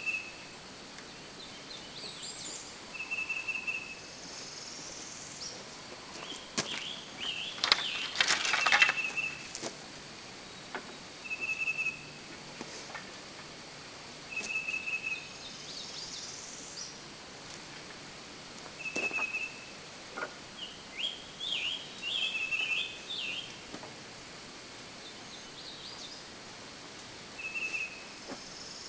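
Wild birds singing: a short, high whistled note repeated every few seconds, with bursts of quicker chirping calls in between. A few faint clicks mix in with the chirping.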